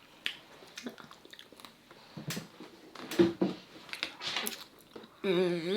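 Close-up mukbang eating sounds: wet chewing, lip smacks and small clicks as crab and lobster are picked apart and eaten. Near the end comes a loud, drawn-out wavering vocal sound, like a long hummed "mmm".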